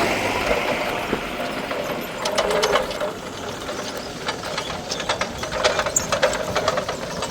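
Small single-cylinder four-stroke petrol engine of a long-tail water pump running, with irregular sharp mechanical clicking from about two seconds in, several clicks a second.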